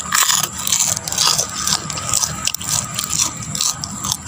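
Crunching and chewing of crisp fried beef chicharon (beef skin cracklings), an irregular run of crackly bites.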